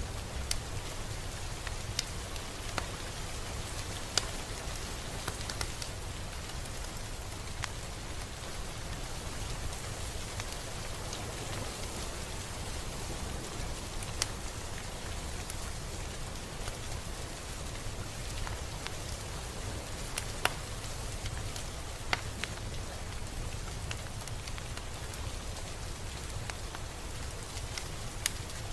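Steady rain falling, a constant hiss with scattered sharper drop hits standing out now and then, over a low rumble.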